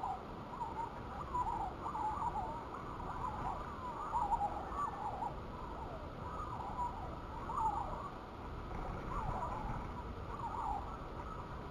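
Sparrows chirping: a run of short, wavering chirps, several a second, over a low steady background rumble.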